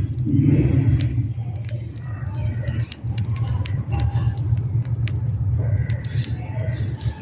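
Birds and squirrels feeding: scattered sharp ticks and pecks with a few short chirps, over a steady low rumble.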